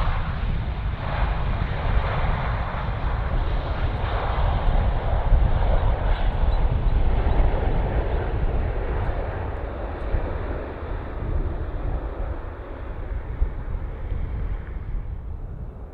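Jet airliner engines passing close by, loudest in the first half and then slowly fading away, over a low rumble.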